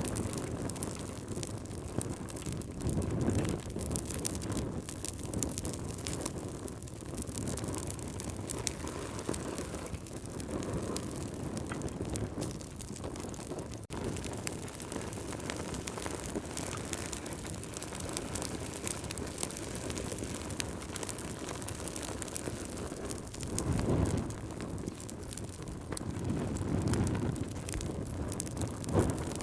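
Campfire burning with a constant crackle of small pops and snaps. A low rumble swells up a few times, the strongest about three-quarters of the way through.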